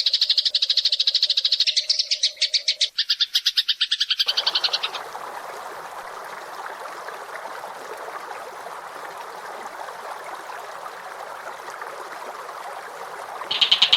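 Songbird recordings: a fast, high, buzzing trill for the first few seconds, then a dense, harsh chattering lower in pitch for about nine seconds, and the high trill returns near the end.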